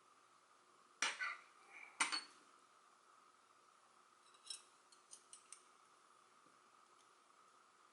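Pieces of a Hanayama Enigma cast-metal puzzle clinking against each other as it is taken apart: two sharp metallic clinks about a second apart, then a few lighter clicks.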